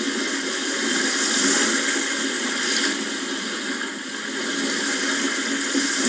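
Sea waves: a steady rush of surf that swells slightly about a second and a half in and again near three seconds, then eases off.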